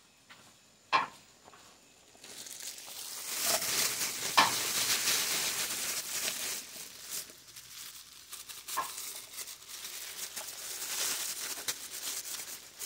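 Food sizzling in hot oil in a pan, starting suddenly about two seconds in and running on with a fine crackle, with a few knocks of utensils.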